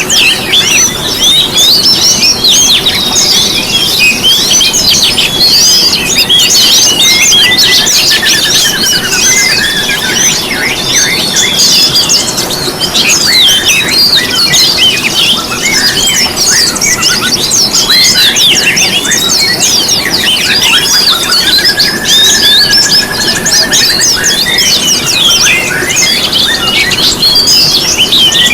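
A dense chorus of many small songbirds, with overlapping fast chirps and twitters throughout. A rapid lower trill comes in about three-quarters of the way through.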